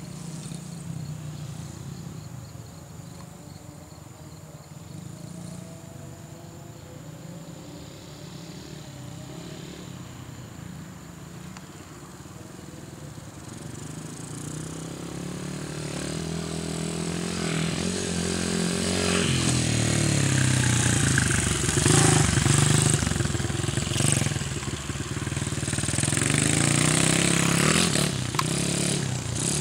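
Small Honda XR single-cylinder four-stroke dirt bike running, distant and quiet at first, then growing louder as it comes close about two-thirds of the way in. The engine pitch rises and falls as the throttle opens and closes, with a second loud pass near the end.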